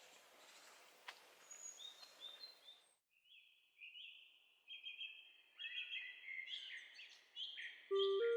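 Songbirds singing and chirping in a forest: a few faint chirps over a soft background hiss at first, then a busier run of repeated high song phrases. Music with sustained notes comes in loudly near the end.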